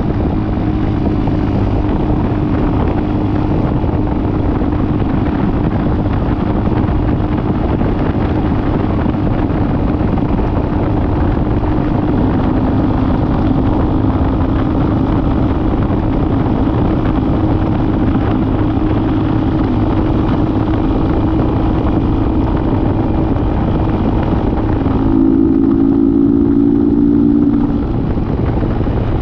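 Dirt bike engine running steadily under way, its note shifting with the throttle, and rising and getting louder for a few seconds near the end.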